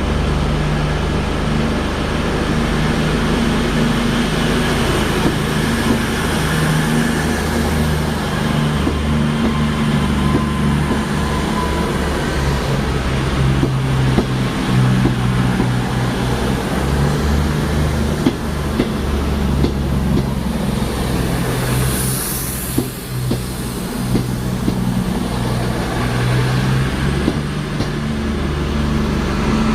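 Large diesel engine running steadily, its low drone wavering in level, with scattered knocks and a brief hiss about 22 seconds in.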